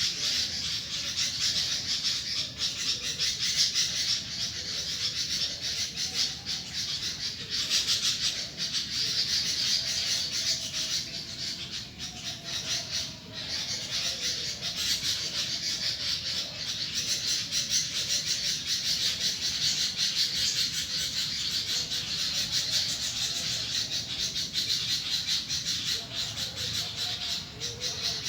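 Sooty-headed bulbuls calling back and forth among other birds, in a dense, unbroken chorus of high chirps and chatter.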